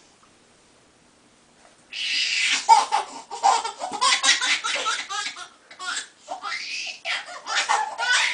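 A baby laughing hard in repeated bursts of belly laughter, starting about two seconds in after a quiet moment, with a short break about two-thirds of the way through.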